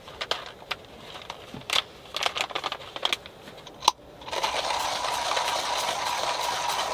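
A series of light clinks and taps from small hard objects being handled. About four seconds in, a steady hiss with a faint whistling tone starts suddenly.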